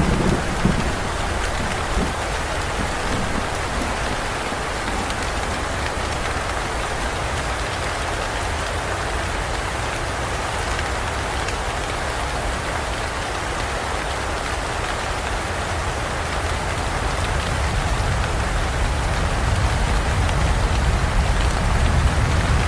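Steady heavy rain falling on foliage and ground, an even hiss of drops. A low thunder rumble dies away in the first second, and another rumble slowly builds near the end.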